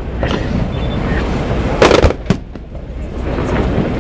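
Aerial fireworks bursting: a fainter bang just after the start, then a loud bang about two seconds in, quickly followed by another.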